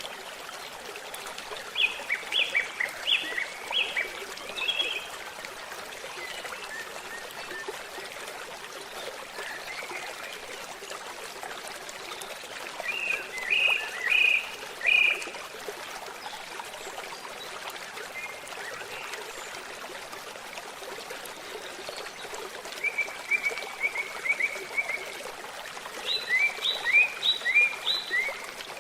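A babbling stream flowing steadily, with birds singing short phrases of quick repeated chirps four times over it.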